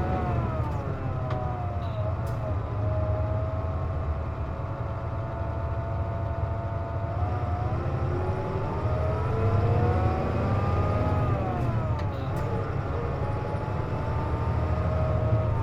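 Inside a moving Hino Rainbow KC-JP250NTN city bus: a low engine and road rumble under a whine of several tones. The whine falls at the start, holds steady for a few seconds, climbs and then falls again around twelve seconds in. This is the abnormal noise the uploader says this bus makes with the air conditioning on.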